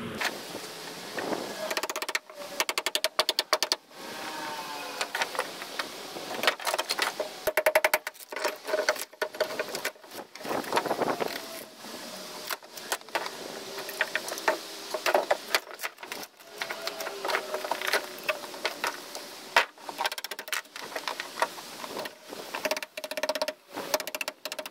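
Irregular clattering and knocking from hand work on a boat transom, in quick runs of rattling clicks, with a faint steady tone underneath. No power saw is running.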